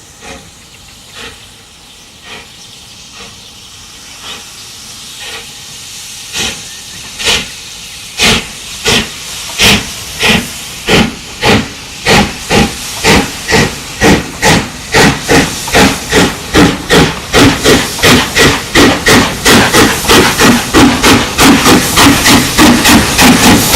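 Steam locomotive working hard, its exhaust beats faint and about one a second at first, then growing steadily louder and quicker to about three a second as it accelerates and approaches.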